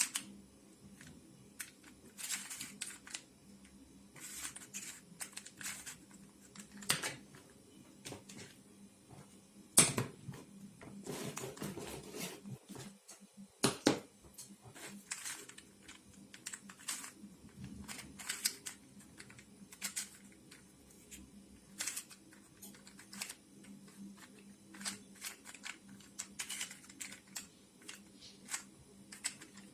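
Resin 3D-printed 3x3x3 twisty puzzle being turned by hand: its plastic pieces give irregular light clicks and clacks as the layers move, with two sharper knocks about ten and fourteen seconds in.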